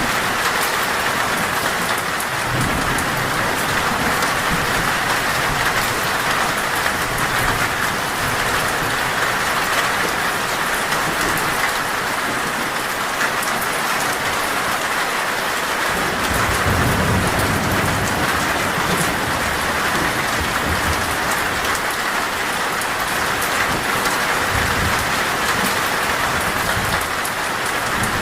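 Heavy, steady rain falling on a metal roof, with low rolls of thunder rumbling under it a couple of seconds in, again a little past halfway, and near the end.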